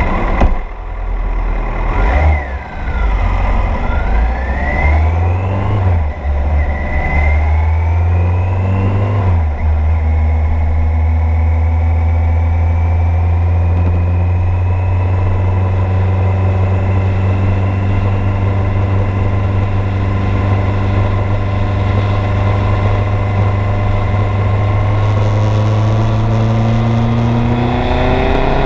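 1986 Kawasaki GPZ900R's inline-four engine running under way: its pitch rises and drops several times in the first ten seconds as it pulls through the gears, then it holds a steady note that slowly climbs in pitch.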